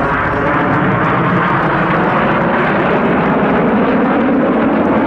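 BAE Hawk T1 jet trainers flying overhead in formation, a loud steady jet roar from their turbofan engines.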